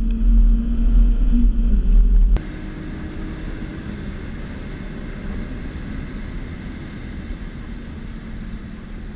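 Inside the Ford Fiesta ST, its 2.0-litre four-cylinder engine held loud and steady at high revs. About two and a half seconds in, the sound cuts to the quieter cabin of the BMW 328i (E36), its 2.8-litre straight-six running under a steady rush of wind and tyre noise on the wet track.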